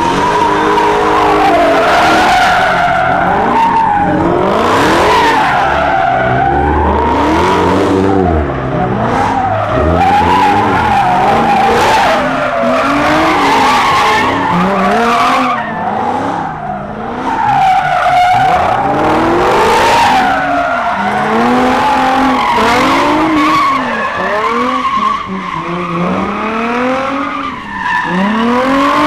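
A car doing donuts: its engine revs up and down over and over, about once every second or two, while the rear tyres squeal without a break as they spin on the pavement.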